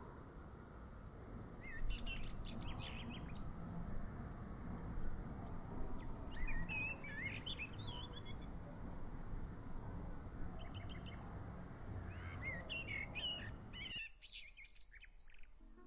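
Birds chirping and calling in short, high phrases over a steady outdoor background hiss; the hiss cuts out suddenly near the end while a few last calls carry on.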